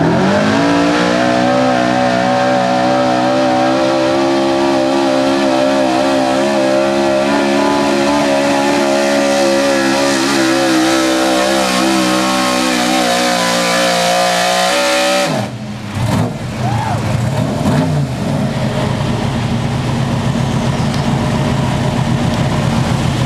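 Modified 4x4 pulling truck's engine revving up and held at high, wavering revs under full load for about fifteen seconds, then dropping off sharply. After that a lower, steadier engine sound runs on.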